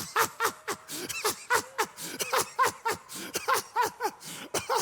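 Loud, rhythmic laughter in quick short bursts with a falling pitch, about four or five a second.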